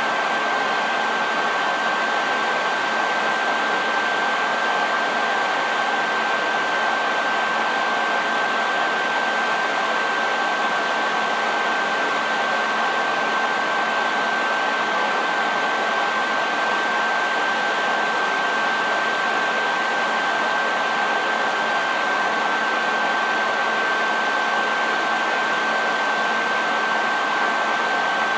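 Hair dryer running steadily: an even rushing of air with a steady high whine from its motor and fan.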